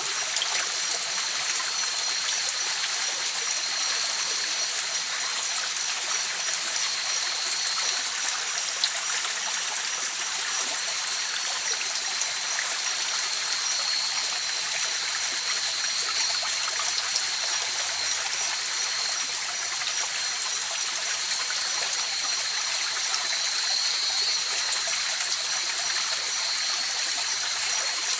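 River water flowing and trickling over rocks in a steady rush. A thin, steady high-pitched tone runs on top throughout.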